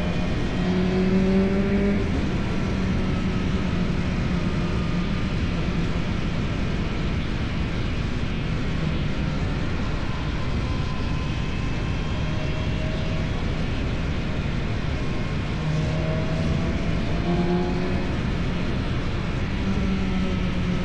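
Motorcycle engine running through an Akrapovič exhaust under way on a mountain climb, its note rising and falling with the throttle, over a steady rushing noise.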